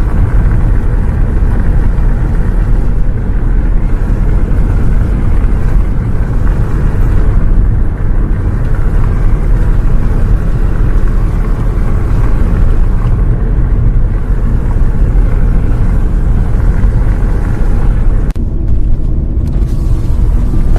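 A bus on the move: a loud, steady low rumble of engine and road noise, with the higher hiss thinning briefly near the end.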